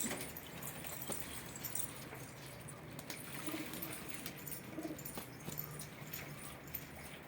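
Domestic pigeons cooing: a couple of low, soft coos around the middle, over faint scattered clicks and a steady low hum.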